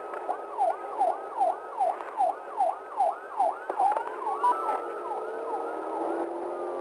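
Police car siren switching from its wail to the fast yelp, about three falling sweeps a second, then back to a slow rising wail about four seconds in, over road noise.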